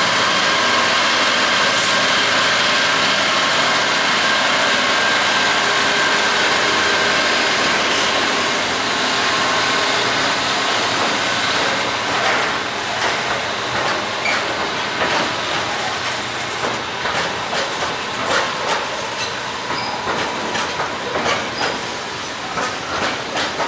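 A train running: a steady engine hum at first, then from about halfway its wheels clicking rapidly over the rail joints.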